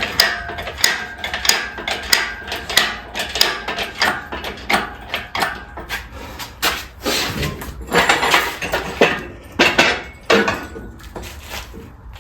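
Irregular metallic clanking and rattling from an engine hoist and its lifting chain as an engine is raised and worked toward the stand, with clusters of sharp knocks.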